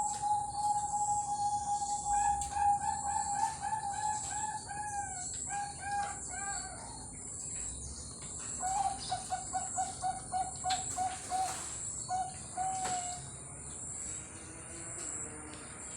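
Bangkok-bred zebra dove (perkutut) cooing: a long held note that breaks into a series of quick repeated coos, then after a short pause a second run of rapid coos ending in a held note. A steady high-pitched whine runs underneath.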